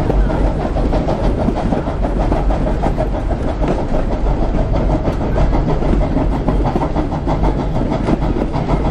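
A train rolling along the track, heard from on board: a steady low rumble with continuous rattling and clatter from the wheels and carriage.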